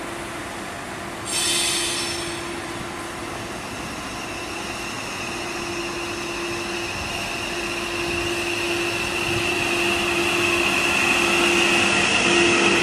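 CAF electric multiple unit train approaching slowly and rolling past close by, with a steady high whine that grows louder as it nears. A short shrill sound comes about a second in.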